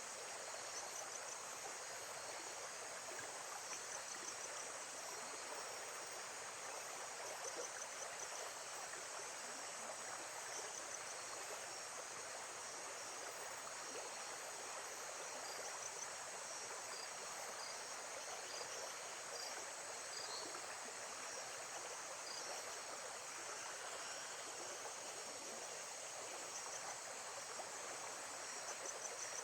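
Nature soundscape: a steady rush of flowing water, with small groups of faint, high insect chirps every few seconds.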